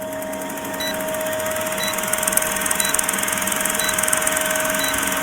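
Steady mechanical hum and hiss with a thin steady whine, and a short high beep about once a second.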